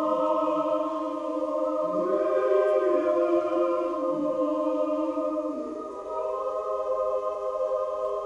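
Choir singing sustained chords: the upper notes are held steady while a lower line moves up and down beneath them.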